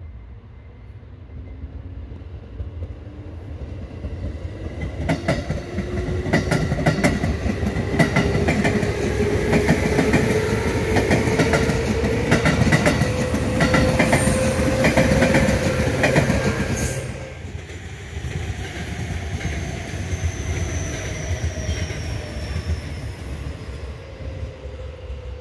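A JR Central orange-striped electric commuter train passing close: its motor whine rises in pitch as it comes on, with a fast clickety-clack of wheels over rail joints, loudest from about five seconds in until it drops away at about seventeen seconds. A second electric train, an Aichi Loop Railway train, then passes with a whine that falls slowly in pitch.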